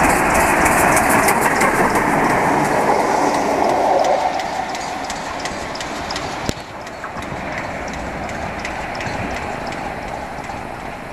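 Train hauled by an A1 Pacific steam locomotive passing through at speed: a rumble with rapid wheel clacks over the rail joints, loud for about four seconds, then dropping away and fading, with one sharp click midway.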